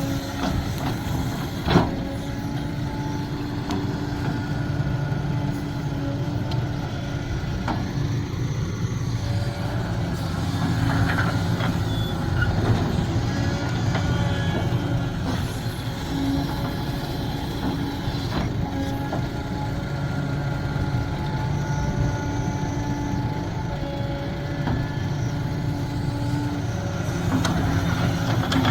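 Sumitomo SH370LHD-6 excavator's diesel engine running steadily, with a few knocks and a sharp knock about two seconds in.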